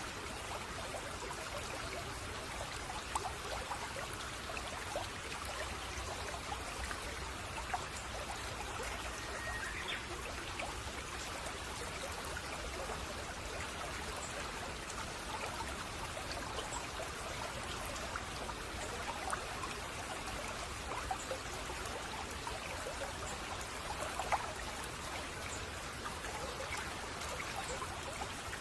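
Babbling brook: shallow stream water trickling and splashing over stones in a steady, even flow, with a faint short chirp about ten seconds in.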